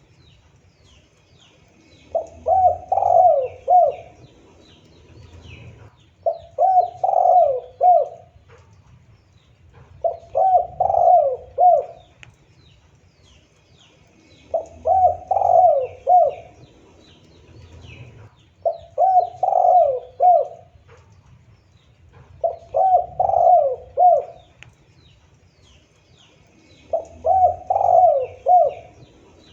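Spotted dove (tekukur) cooing its repeated multi-note call, a phrase of several coos about every four seconds, seven times in all. Faint high chirping of small birds runs underneath.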